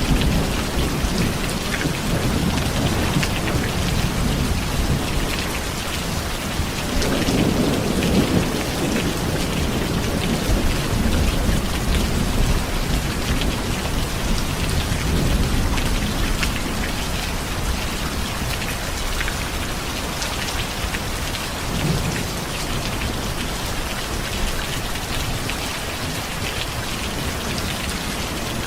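Steady heavy rain with low rolling thunder that swells and fades several times, the strongest rumble about seven to nine seconds in.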